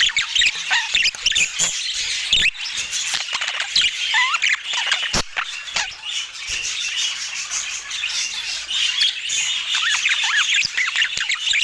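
Budgerigars chattering, with a steady stream of short, warbling chirps and squawks and scattered sharp clicks.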